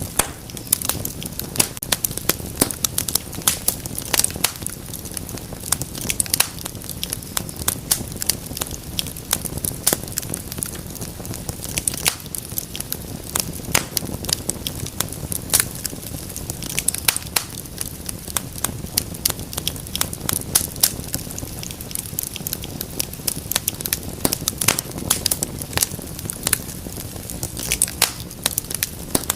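Wood fire crackling in a fireplace: many sharp, irregular pops and snaps over a steady low rumble of flames.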